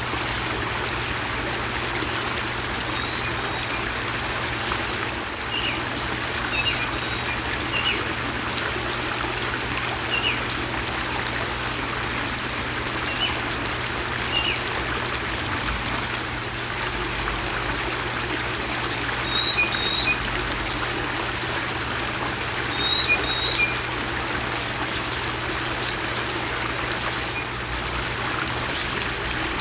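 Small birds giving short, sharp chirps and call notes every second or two over a steady background hiss.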